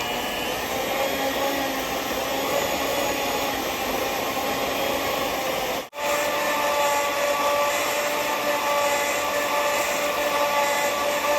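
Electric mixer running steadily, beating softened butter; the motor sound drops out for an instant about six seconds in and resumes.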